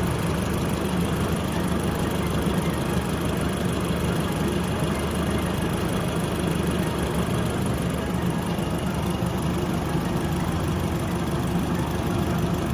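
2013 Alfa Romeo Giulietta Quadrifoglio Verde's turbocharged four-cylinder engine idling steadily with the air conditioning running, just after a refrigerant recharge.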